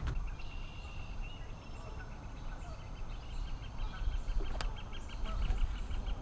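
A bird calling in a steady run of short, high notes, several a second.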